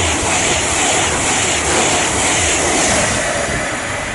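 A Class 390 Pendolino electric train passing through non-stop at speed. It makes a loud, steady rush of wheel and air noise that eases slightly near the end.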